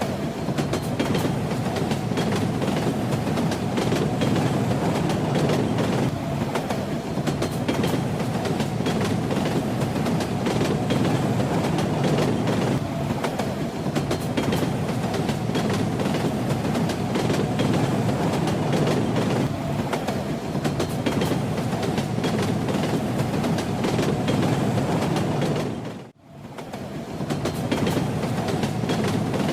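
Steady rumble of a train in motion, with the rattle and clatter of its wheels over the rails. About 26 seconds in, the sound dips abruptly almost to silence and then swells back within a couple of seconds.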